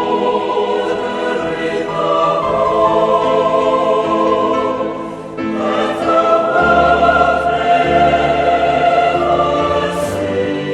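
Choir singing in long held chords that change every second or two, with a brief break a little over five seconds in.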